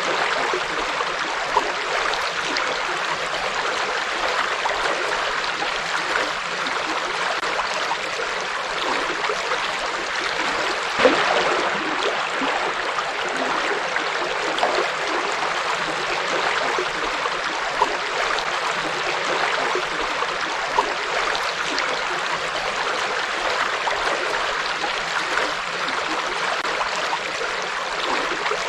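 Forest river flowing: a steady rush of water with small splashes and gurgles now and then, the largest about eleven seconds in.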